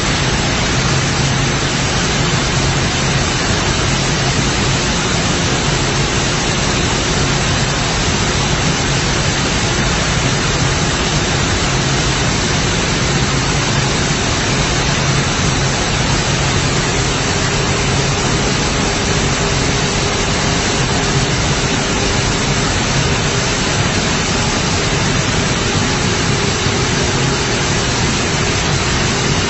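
Maize flour milling machinery running: a loud, steady, even rushing noise with a low hum underneath. A faint steady tone joins about halfway through.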